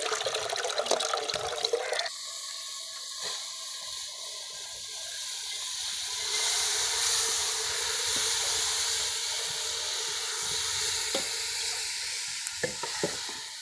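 Chopped cauliflower swished about by hand in a pot of water as it is washed. From about six seconds in, the wet cauliflower tipped into a hot pot of masala sets up a steady sizzle, with a few clicks from the stirring near the end.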